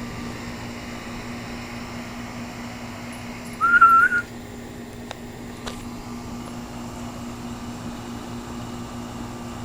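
2006 Goodman 3-ton central air-conditioner condensing unit running with a steady hum. About three and a half seconds in, a single short, high whistle stands out above it, followed by a couple of faint clicks.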